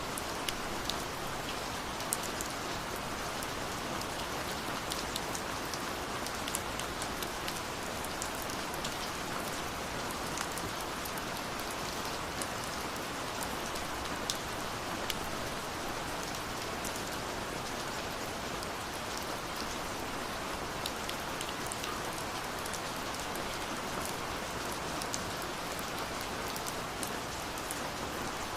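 Steady rush of a waterfall with the scattered sharp pops and crackles of a wood fire over it.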